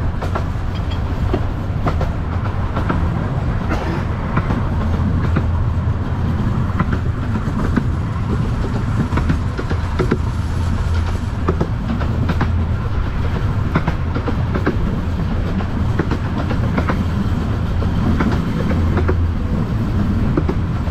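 15-inch-gauge miniature railway train running along the track: a steady low rumble with irregular clicks of the wheels over the rail joints.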